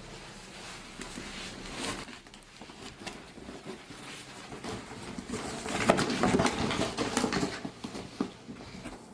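Rustling and scuffling from an injured bird being handled, with small clicks, louder about six seconds in.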